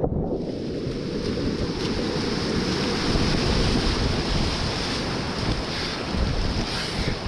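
Whitewater rapids rushing, loud and steady: a deep rumble of the river with splashing hiss that fills in just after the start, and water and wind buffeting the kayaker's camera microphone.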